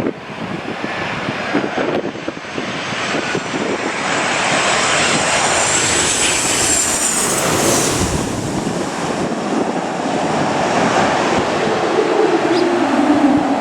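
Airliner engines passing close on a landing in strong crosswind gusts: a high whine builds to a peak about seven seconds in and fades, and a lower engine tone drops in pitch near the end. Gusty wind buffets the microphone.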